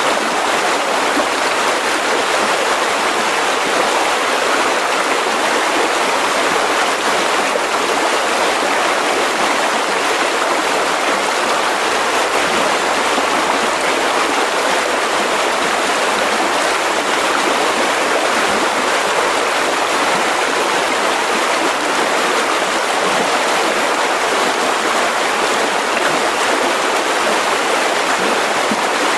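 Mountain river rushing over rocks: a steady, even rush of flowing water with no breaks.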